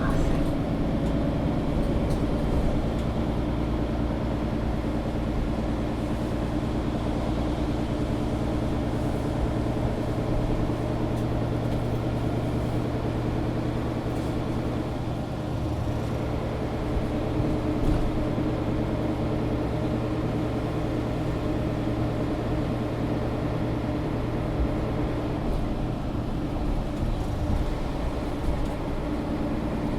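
Mercedes-Benz O530 Citaro G articulated city bus running steadily, heard from inside the passenger cabin: a steady engine hum with a low, even drone and road noise.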